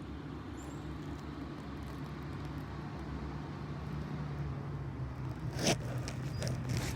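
A vehicle engine drones low and steady and slowly grows louder. There is a single sharp knock about five and a half seconds in.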